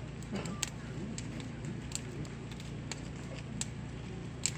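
Wood burning in kagaribi bonfire braziers, crackling with sharp pops at irregular moments, over a steady low hum and faint voices.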